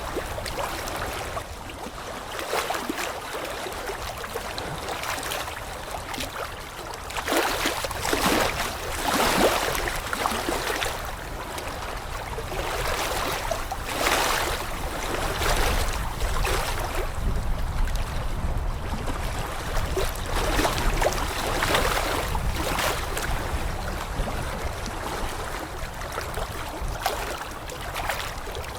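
Rushing water: a continuous noisy wash that swells into louder surges every few seconds.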